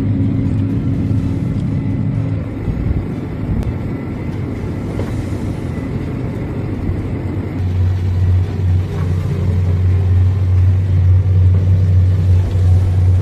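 A vehicle running: a steady, low rumbling drone that gets stronger and louder about eight seconds in.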